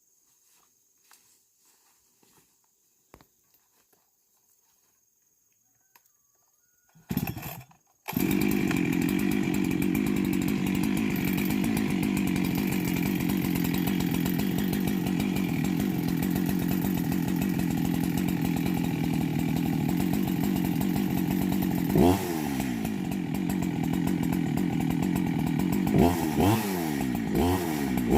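A two-stroke chainsaw starts about seven seconds in, after a few faint clicks, and runs steadily at constant speed. Its engine speed swings sharply once about two-thirds of the way through and several times near the end.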